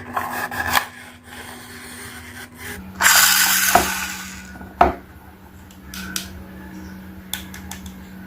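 Handling noises of small hard objects: scattered clicks and knocks, a loud hissing rush about three seconds in lasting over a second, then a sharp knock, over a steady low hum.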